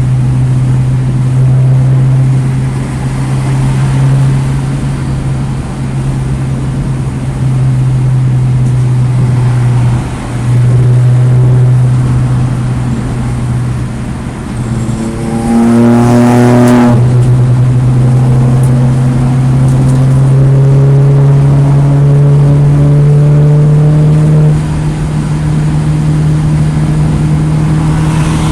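2009 Mini Cooper S's turbocharged 1.6-litre four-cylinder engine driven hard around a race track: a loud, steady engine drone with brief breaks about ten and sixteen seconds in, a short burst of higher rising notes around the sixteen-second mark, then pitch climbing slowly as the car accelerates through the last part.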